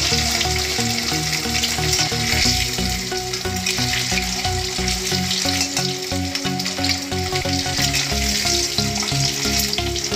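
Whole boiled eggs frying in a little oil in a metal kadhai, sizzling steadily, while a spatula turns them against the pan.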